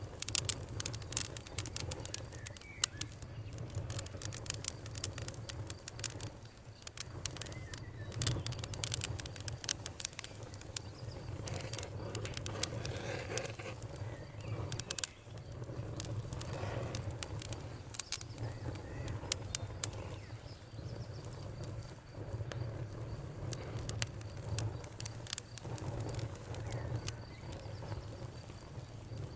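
Wood fire crackling and popping, with many sharp snaps over a steady low rumble, and birds calling now and then.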